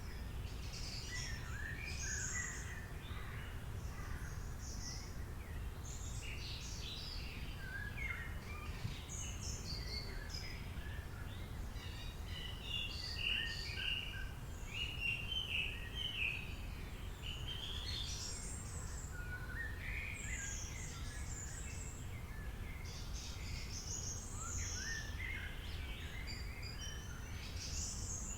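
Several wild birds chirping and singing at once, short overlapping calls and trills, over a steady low background rumble.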